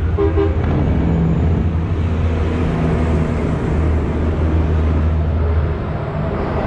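Diesel truck engines running with a steady low drone, with a brief higher-pitched tone in the first half-second.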